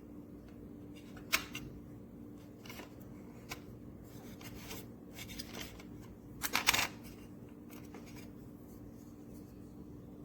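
Scattered clicks and short rubbing noises of something being handled, over a steady low hum. There is a sharp click about a second in, and the loudest cluster of clicks comes a little after halfway.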